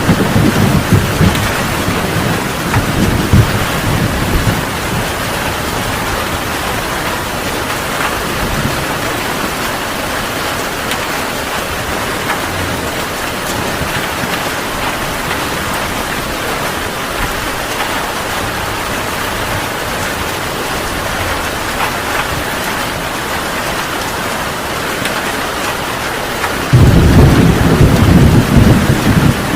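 Heavy rain falling steadily, with thunder rumbling over the first few seconds and fading, then a loud rumble of thunder starting suddenly near the end.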